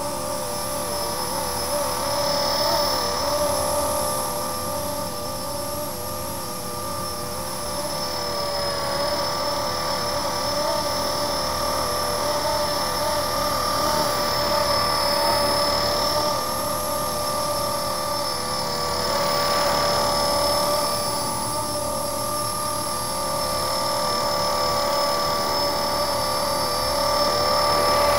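Blade SR radio-controlled electric helicopter hovering: a steady motor whine and rotor noise, its pitch wavering slightly up and down as the hover is held.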